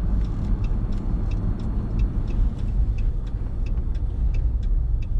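Steady road and engine rumble inside a moving truck's cab, with a faint, even ticking about four times a second over it.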